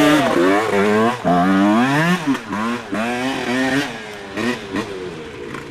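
Dirt bike engines revving up and dropping back again and again, about once a second, as the bikes ride through; the sound gets quieter after about four seconds.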